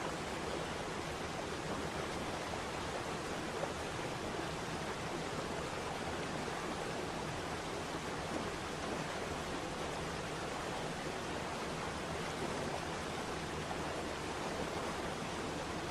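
Waterfall: falling water rushing as a steady, even noise.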